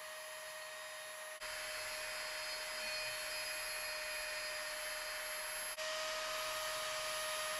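Small electric rotary tool running steadily, used for engraving a knife blade: a motor whine of fixed tones over an even hiss. It breaks off abruptly about a second and a half in and again near six seconds, each time picking up slightly louder.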